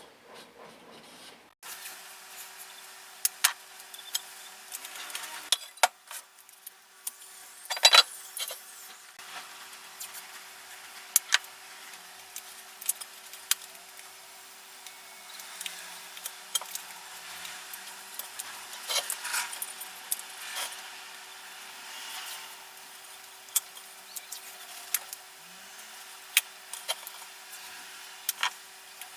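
Workshop hand work on small metal tool parts: scattered clicks, clinks and knocks, with rubbing and scraping between them, over a faint steady hum.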